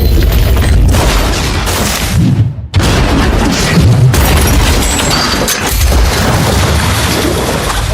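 Movie car-crash sound effects: a Lamborghini tumbling off the road in a loud, dense din of crunching and heavy booming impacts. The din cuts out briefly about two and a half seconds in, then resumes.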